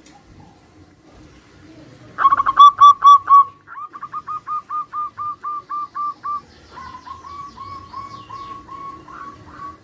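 Zebra doves (perkutut) cooing back and forth: a loud run of short staccato coos about two seconds in, followed by two fainter, quicker runs of coos, one after the other.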